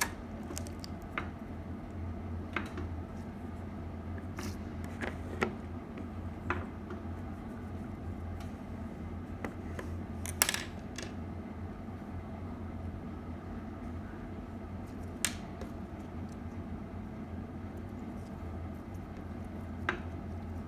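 Slime being squished and poked by hand, giving sparse sharp crackles and clicks, the loudest about halfway, over a steady low hum.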